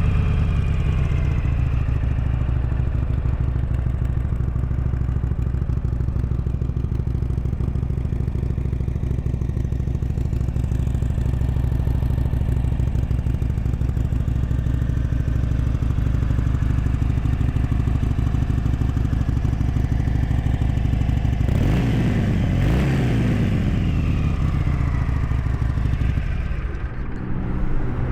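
Harley-Davidson Sportster 883 Iron's 883cc fuel-injected V-twin idling steadily through its stock exhaust, revved briefly twice about three quarters of the way through.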